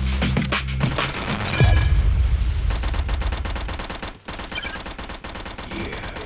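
A rapid, dense run of sharp cracks like a burst of gunfire over deep bass. The bass fades out about halfway through while the crackling goes on.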